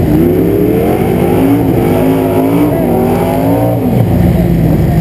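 Car engine held at raised revs, its pitch rising and wavering, then falling back about four seconds in, over a steady idle.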